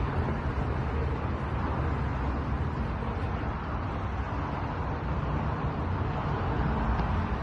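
A car being driven: steady engine and road noise at an even level.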